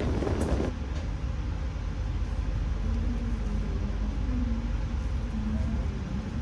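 Rail noise heard from inside a passenger train coach. Loud wind and rolling noise from the train at speed cuts off under a second in, giving way to a steady low rumble with a faint wavering hum as the train rolls slowly along a station platform.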